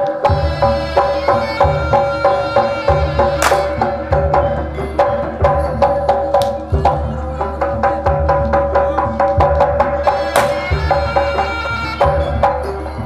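Javanese reog gamelan music, instrumental: quick repeated metal-keyed notes and a low gong hum over hand-drum beats. A bright crash strikes twice, about 3.5 seconds in and again near 10 seconds.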